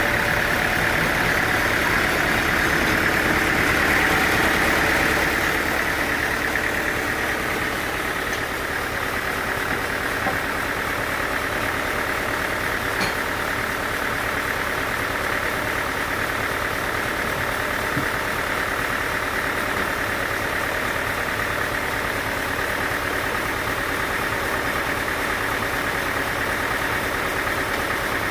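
Sawmill machinery running steadily: a continuous engine-like drone, with a higher whine that eases off about five seconds in.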